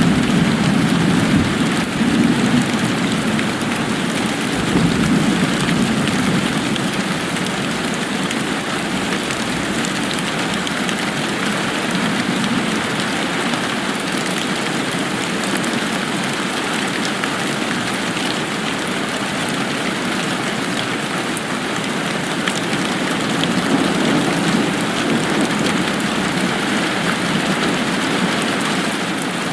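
Steady rain falling, an even hiss of drops, with a low rumble underneath that swells in the first few seconds and again near the end.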